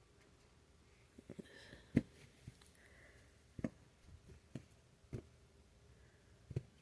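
A few scattered soft clicks and taps, the loudest about two seconds in, over a quiet room.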